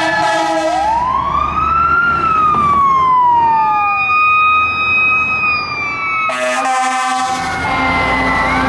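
Fire truck responding with its warning devices. A blaring horn stops about a second in, then a siren rises and slowly falls away alongside steady siren tones. Just past six seconds the sound breaks off suddenly and another horn blast and siren take over.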